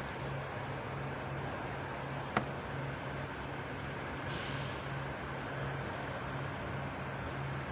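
A truck idling with a steady, pulsing low hum. There is one sharp click a little over two seconds in, and about halfway through a short hiss of air that fades within a second, like an air brake releasing.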